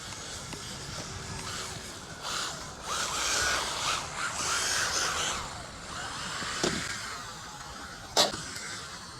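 Electric RC car running: its motor whines up and down in pitch under a hiss of tyres on concrete as it speeds and drifts. Two sharp knocks follow late on, the second the loudest sound.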